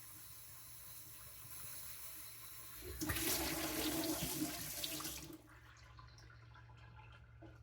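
Water running for about two seconds, starting about three seconds in and stopping suddenly, then dripping.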